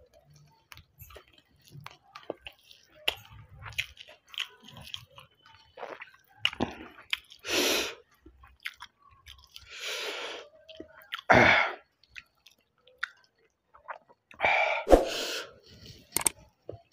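A person chewing mouthfuls of rice with green-chilli chutney, with wet mouth clicks and smacks throughout. Four or five louder breathy bursts, about half a second each, come between the middle and near the end.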